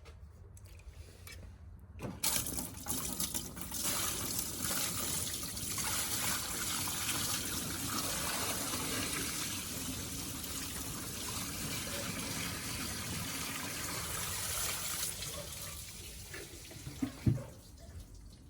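A bucket of water poured out and splashing over a car's corroded battery tray area to rinse it, starting suddenly about two seconds in and running for some fourteen seconds before tailing off. A short low thump follows near the end.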